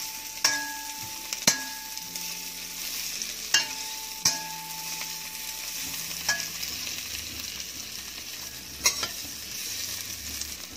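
Sliced garlic and ginger sizzling as they fry in olive oil in a stainless steel pan, stirred with a metal spoon. The spoon clinks against the pan about six times, some strikes leaving the pan briefly ringing.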